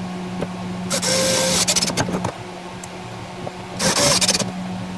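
Power tool, most likely a drill, running in three short bursts over a steady hum, with clicks between the bursts.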